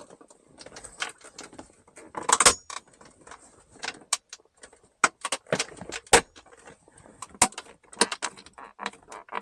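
Irregular clicks, taps and rattles of a center console jump seat lid and its hinge being handled and worked into place, with a louder clatter about two and a half seconds in.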